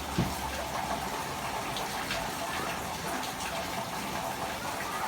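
Proton Preve's exhaust idling through a Scirocco R cat-back muffler with the resonator deleted: a steady rushing hiss, with a low rumble that drops away about a second in. No revving.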